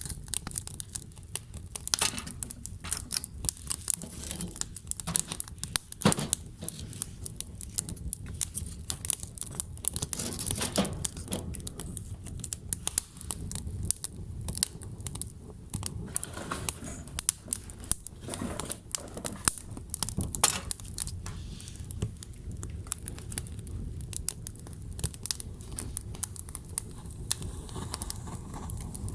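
Wood fire burning, with dense, irregular crackling and popping over a low steady rumble of the flames.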